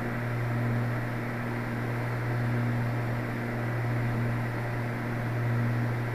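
Light Cessna's piston engine and propeller droning steadily in the cockpit, picked up by a microphone inside the pilot's headset, with a slow rise and fall in loudness every second or two.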